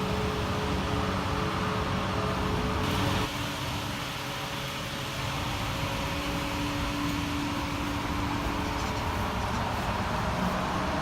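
Parked Acura TSX idling with a steady mechanical hum. About three seconds in, a short hiss sounds and the hum settles to a lower steady tone.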